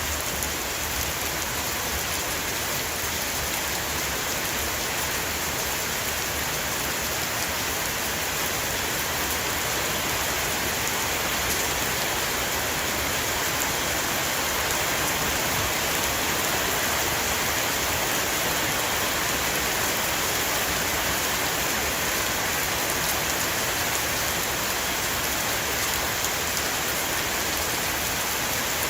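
Heavy rain falling on a roof, a dense, steady hiss of drops.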